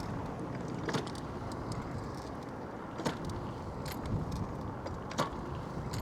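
Steady rushing of wind on the microphone while riding a bicycle, with four sharp clicks or rattles about one, three, four and five seconds in.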